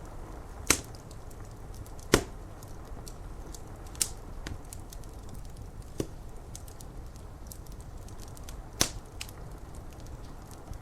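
Wood fire crackling with small ticks and about five sharp, loud pops, over a steady hiss of rain on window glass.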